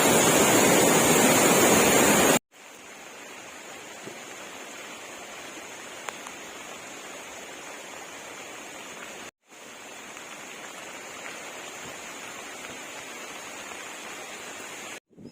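Rushing water of a waterfall: a loud, full roar for the first two seconds or so, then an abrupt cut to a quieter, steady rush, with another brief cut about nine seconds in.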